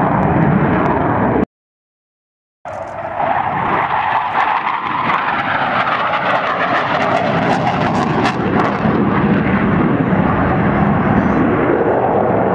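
Aircraft engine noise: a loud, steady rush that cuts out to silence for about a second near the start, then resumes.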